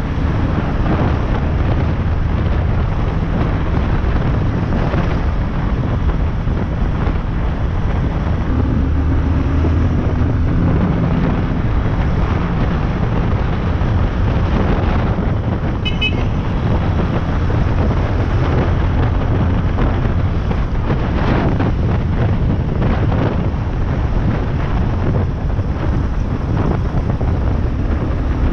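Yamaha Lander 250 single-cylinder motorcycle engine running steadily while riding, with wind buffeting the microphone. A brief run of high beeps sounds about halfway through.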